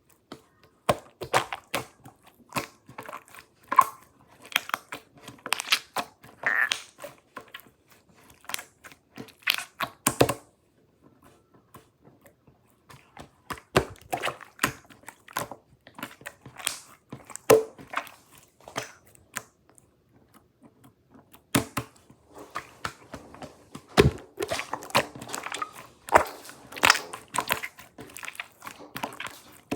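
Slime being squeezed and poked by hand, giving runs of quick sticky clicks and crackles, with a couple of short pauses.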